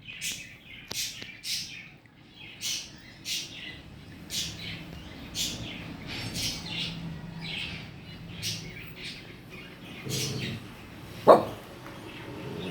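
Pet cockatiel chirping over and over, short high chirps about once or twice a second, with one louder, sharper call about eleven seconds in.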